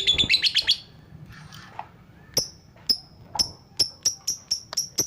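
Lovebird chirping: a fast trill of chirps breaks off under a second in. After a pause come sharp, single, higher chirps, spaced out at first and quickening to about four a second near the end.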